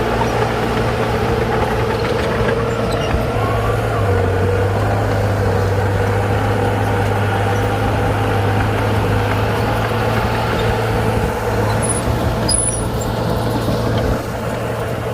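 Bulldozer's diesel engine running steadily with a constant low hum, dropping slightly in level near the end.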